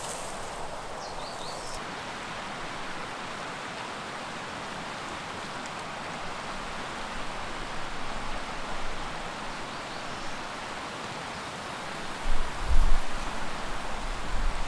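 Steady rush of running stream water, with a few low thumps in the last couple of seconds.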